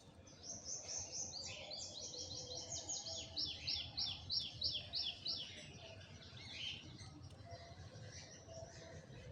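A songbird singing a fast series of high, repeated downward-sweeping notes, about three a second, for several seconds before fading to fainter calls.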